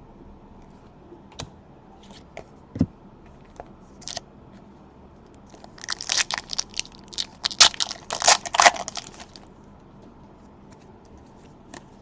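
Plastic trading-card pack wrapper being torn open and crinkled in the hands: a few light handling clicks, then about three and a half seconds of dense crackling in the middle.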